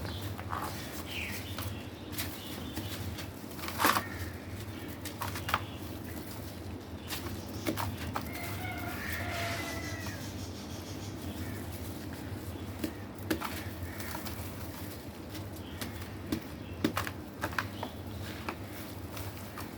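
Wet black stone crumbling and cracking apart: scattered crunches and snaps over a steady low hum, the sharpest crack about four seconds in and a cluster of snaps near the end. A faint animal call sounds near the middle.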